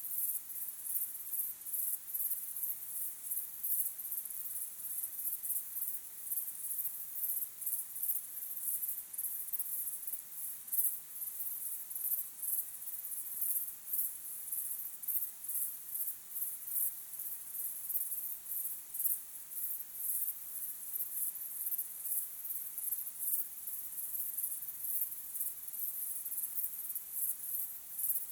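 Crickets chirping in a steady chorus: high-pitched, rapid pulsing trills that overlap continuously.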